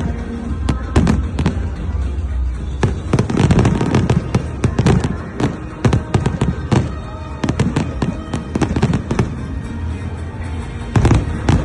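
Fireworks going off in quick, irregular succession: many sharp bangs and crackles over a steady low rumble.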